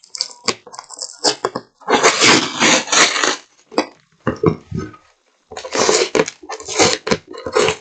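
Sellotape being peeled off a cardboard parcel by hand, with the box being handled: two long noisy stretches of tape coming away, about two seconds in and again about six seconds in, among scattered knocks and crinkles.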